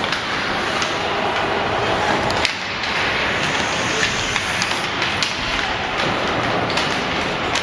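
Ice hockey play: skates scraping on the ice, with frequent sharp clacks of sticks and puck.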